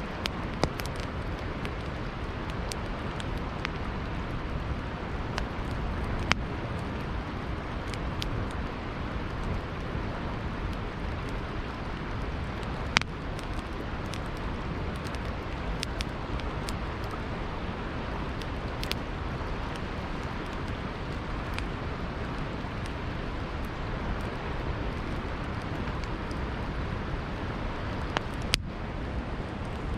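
Campfire crackling, with scattered sharp pops, over a steady rush of flowing river water.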